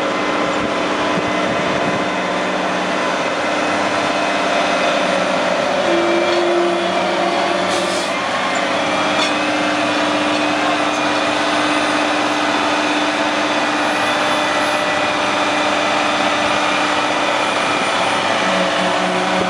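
Heavy diesel engines of oilfield rig-moving trucks running steadily, with a short rise in engine pitch about six seconds in.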